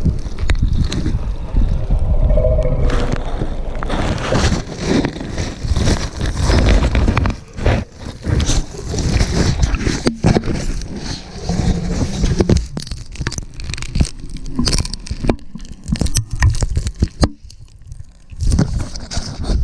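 An elephant handling a GoPro camera right against its microphone: dense scraping and rubbing with many knocks and clicks, and heavy low rumbling.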